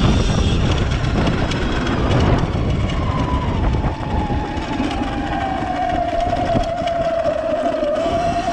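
Sur-Ron Light Bee X electric dirt bike being ridden, its electric motor giving a high whine over a heavy low rumble. From about three seconds in the rumble eases and the whine slowly falls in pitch as the bike slows.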